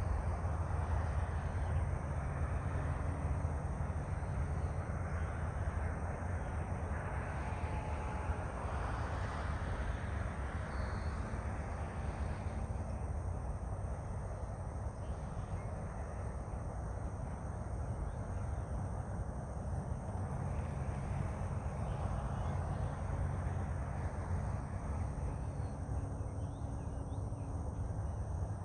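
Steady outdoor background noise, mostly a low rumble, with no clear single event; a couple of faint short tones sound about eight and eleven seconds in.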